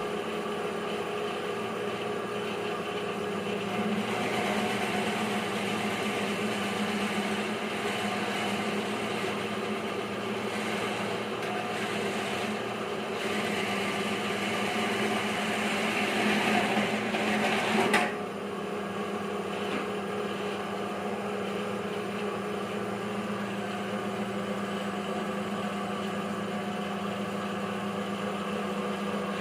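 Electric fresh-coconut fibre shredding machine running with a steady motor hum. A louder, rougher cutting noise builds from about four seconds in and drops back suddenly a little past the middle, leaving the plain running hum.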